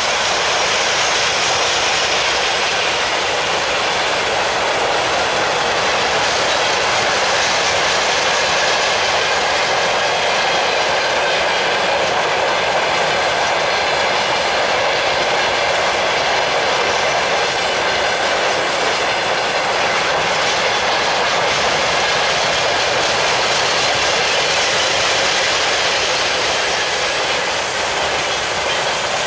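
Freight train wagons, covered boxcars and open gondolas, rolling past close by: a steady, loud noise of steel wheels running on the rails.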